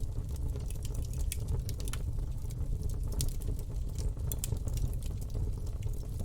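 Campfire burning: wood crackling with frequent irregular sharp pops over a steady low rumble.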